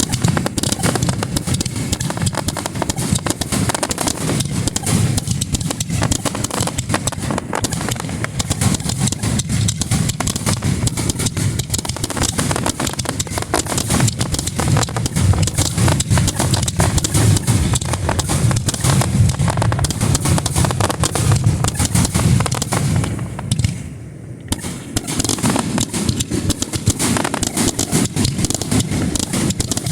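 Starmine fireworks barrage: a dense, continuous rapid fire of shell launches and bursts, with a brief lull about 24 seconds in before it picks up again.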